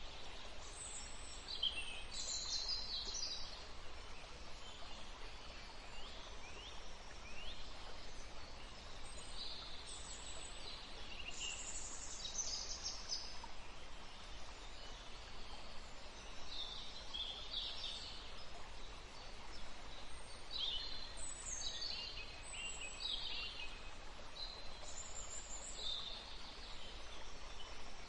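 Several songbirds singing and chirping over a steady background hiss, with short high notes and quick downward sweeps coming in clusters every few seconds.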